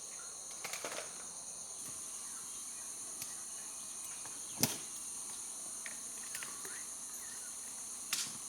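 Steady chorus of crickets and other insects, with a few sharp clicks cutting through it; the loudest click comes about halfway through.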